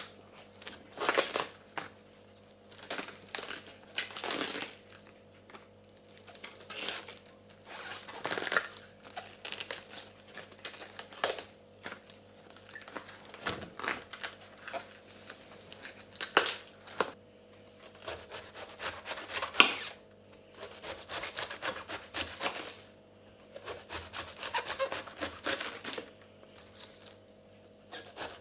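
Irregular bursts of crinkling and rustling, like packaging or paper being handled and torn, over a faint steady hum.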